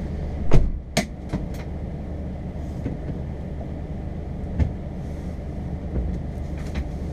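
Car engine idling with a steady low hum, under a series of sharp clicks and knocks from inside the car: a loud clack about half a second in, a few lighter clicks after it, and a heavier knock about four and a half seconds in.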